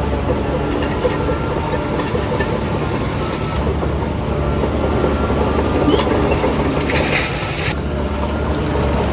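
Shantui DH17C3 bulldozer's diesel engine running steadily under load, with its steel tracks rattling. A short hiss lasts under a second about seven seconds in.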